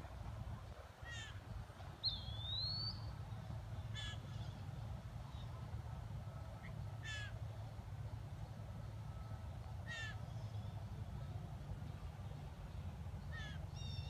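A bird repeats a short falling trill of high notes about every three seconds. A single rising whistle comes around two seconds in. A low steady rumble runs underneath.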